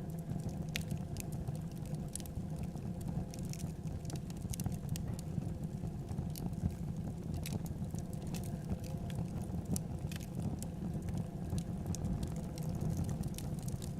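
Wood fire burning in a fireplace: a steady low rumble with irregular crackles and small pops scattered throughout.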